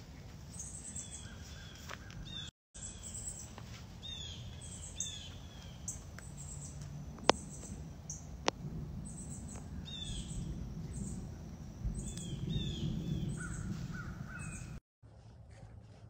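Birds calling again and again with short, harsh, repeated calls over a low rumble on the microphone. Two sharp clicks come about halfway through, and the sound drops out briefly twice.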